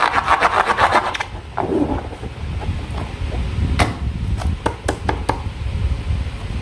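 Slime being squeezed and worked by hand, with a dense wet crackling for about the first second. After that come quieter rubbing and a few sharp clicks.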